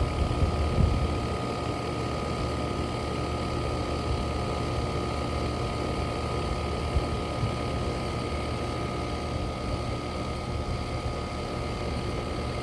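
Outdoor air conditioner condenser unit running: a steady whirring from its spinning fan over a constant compressor hum.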